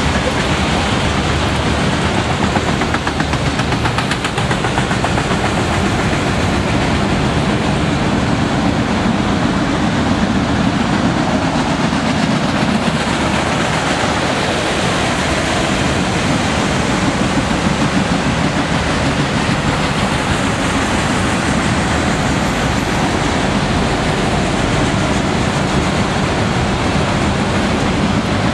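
Freight train of autorack cars rolling past: a loud, steady rumble and rattle of steel wheels on the rails, without a break.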